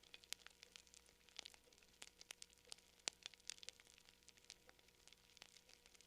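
Faint campfire crackling: irregular sharp pops and snaps, several a second and unevenly loud, over a soft hiss.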